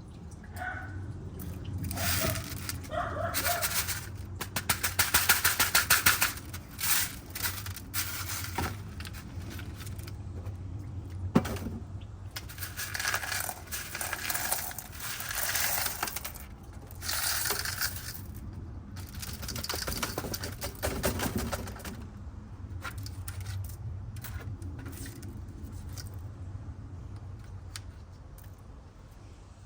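Small rough black opal stones clicking and rattling against one another as they are handled and sorted after tumbling, in bursts, busiest about four to seven seconds in and again around the middle. A low steady hum runs underneath.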